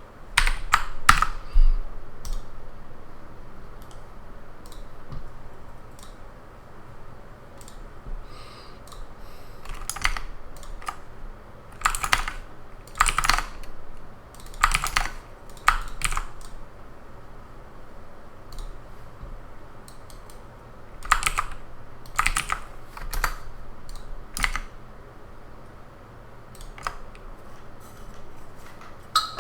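Typing on a computer keyboard, keys clicking in irregular bursts with short pauses between them.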